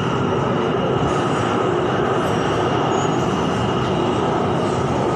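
BTS Skytrain electric train running between stations, heard from inside the car: a steady rolling rumble with a constant high tone above it.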